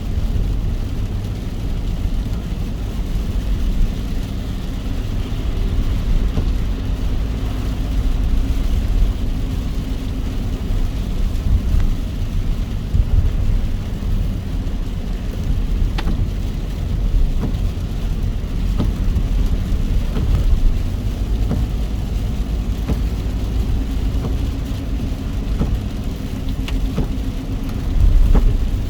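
Steady car road and engine rumble heard from inside a car driving in the rain, with a hiss of rain and spray and scattered faint ticks, likely raindrops on the glass.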